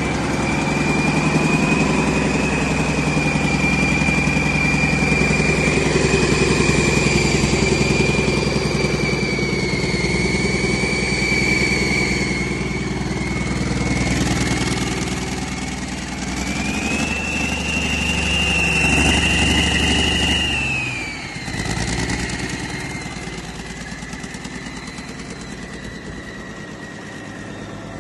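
2013 Cummins QSX15 15-litre inline-six diesel engine running on a test run, with a steady high whine. About two-thirds of the way in the revs and the whine rise, then the throttle is let off and the engine drops back to a quieter idle.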